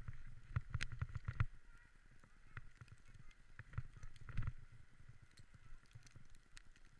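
A dog sled on the move over snow: runners scraping, with irregular knocks and thumps from the sled, heaviest in the first second and a half and again about four and a half seconds in.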